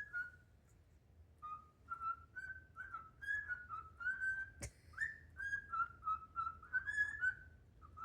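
Cockatiel singing: a string of short, warbling whistled notes that pauses about a second in, then runs on. A single sharp click sounds just past halfway.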